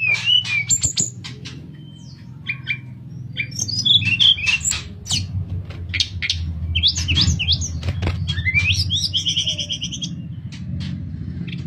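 A tledekan (Cyornis blue flycatcher) singing a varied, flute-like song of quick whistled notes, chirps and sharp clicks, with a rapid buzzy trill about nine seconds in. A steady low hum runs underneath.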